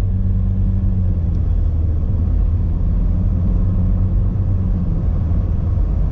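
Car engine and road noise heard from inside the cabin while driving along: a steady low drone.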